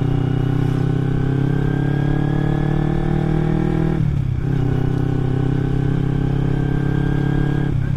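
Kawasaki Ninja 250 carburetted parallel-twin engine running through an aftermarket Akrapovic exhaust while riding. The pitch climbs steadily, dips sharply about halfway through as it shifts up a gear, then climbs again until another shift near the end.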